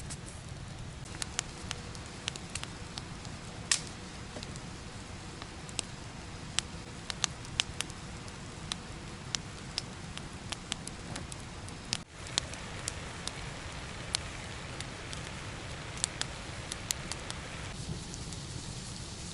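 Campfire crackling, with sharp irregular pops and snaps over a steady low rush of burning wood; the sound drops out briefly about twelve seconds in.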